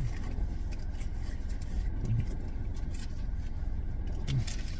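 Steady low rumble of an idling car engine, with a few faint short clicks and rustles over it.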